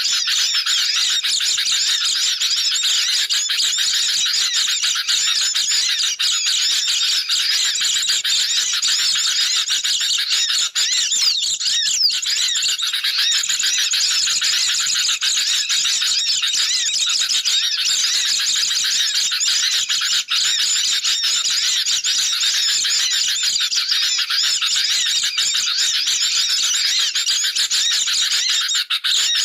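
Dense, unbroken chattering of many small songbirds, sooty-headed bulbuls and white-eyes calling together in a noisy, agitated chorus of overlapping high chirps and trills.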